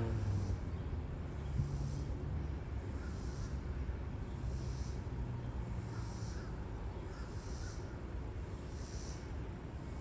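Amtrak Carolinian passenger train rolling past: a steady low rumble, with a brief hiss recurring about every second and a half as the cars go by.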